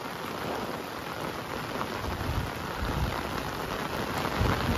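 Heavy rain pouring down, a steady dense hiss of drops hitting the ground and surfaces, with a couple of dull low thumps about two seconds in and near the end.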